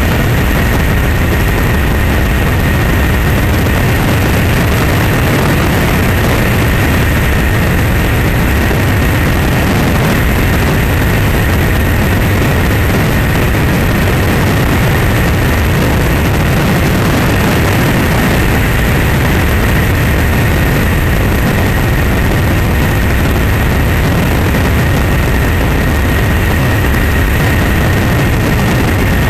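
Steady, loud engine-like running noise with a constant high whine, unchanging throughout.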